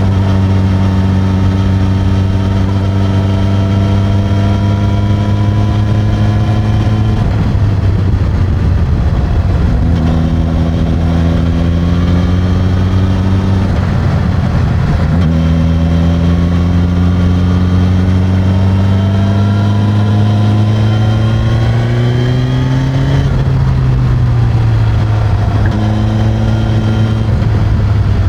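Suzuki GSX-S1000's inline-four engine through the stock exhaust, heard from a microphone on the seat while riding. The engine pulls with a slowly rising pitch, breaking off briefly for gear changes about 7 and 14 seconds in, climbs again, then falls away after about 23 seconds as the bike slows.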